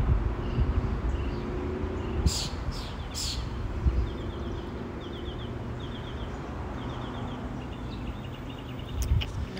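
A small songbird chirping outdoors, repeating short quick trills about once a second over a steady low background rumble, with two brief hisses about two and three seconds in.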